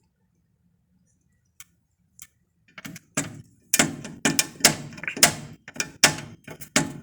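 A run of sharp knocks or taps, irregular at about two to three a second, beginning about three seconds in after two faint ticks.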